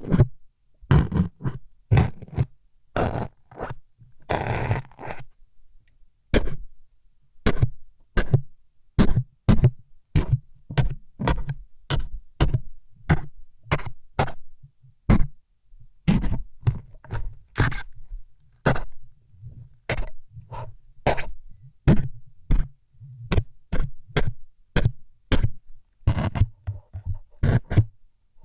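ASMR needle-stabbing sound effects: short, sharp jabbing scrapes close to the microphone, about two a second in an uneven run. A few longer, rougher scrapes come in the first few seconds.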